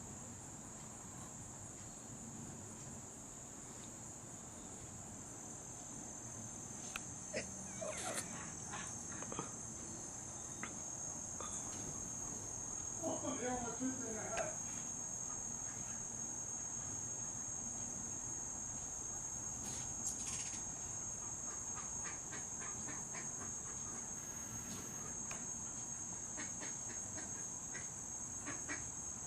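Steady high-pitched trilling of an insect chorus, with a few faint clicks and a brief, fainter chattering sound about halfway through.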